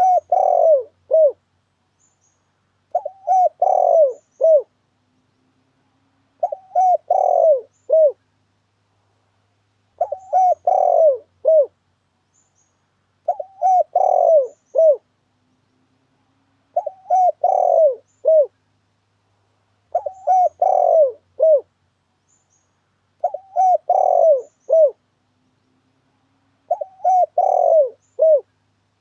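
Spotted dove (tekukur) song: a phrase of several short coos repeated about every three and a half seconds, nine times, with silence between phrases. It is a lure call of the kind played to attract spotted doves into traps.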